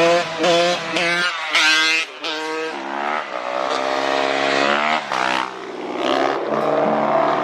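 Dirt bike engines revving, rising and falling in pitch several times.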